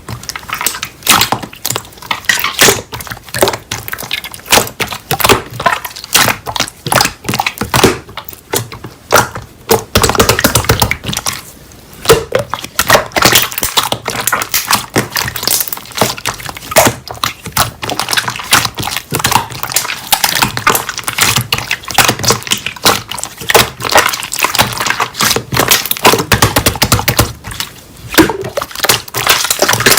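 Slime being squeezed, pressed and poked by hand, giving a dense run of sticky clicks, pops and crackles.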